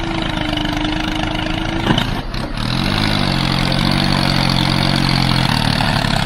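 Small motor running steadily on the DIY mini tractor; its pitch shifts about three seconds in, then holds level.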